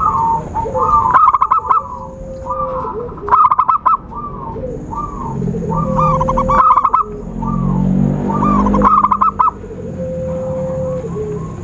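Zebra doves cooing: a run of short phrases of quick, warbling notes, one after another about once a second, over a steady held lower tone. This is a perkutut lure call, played to draw in wild zebra doves.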